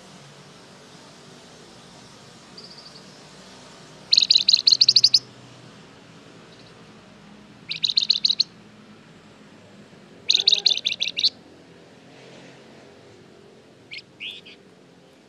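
Flamboyan bird (grey-headed canary-flycatcher) singing three rapid, high chattering trills of about a second each, then two short notes near the end.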